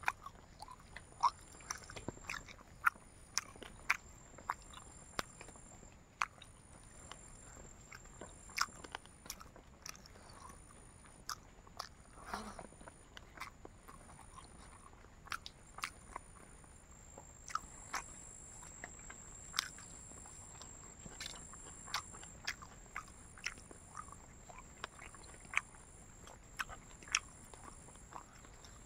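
A person chewing dried fried pork, with sharp crunchy clicks at irregular intervals, about one every second.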